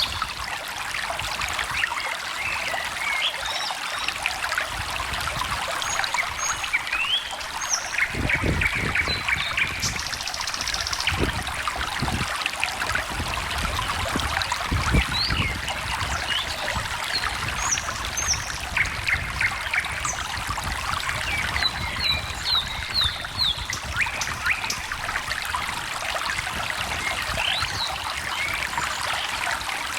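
A small stream trickling and babbling steadily, with birds giving short chirps and song phrases on and off over it. A few low rumbles come near the middle.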